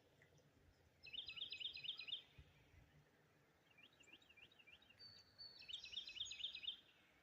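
A songbird singing three short phrases of quick repeated chirping notes: one about a second in, a fainter one around four seconds in, and a louder one near the end.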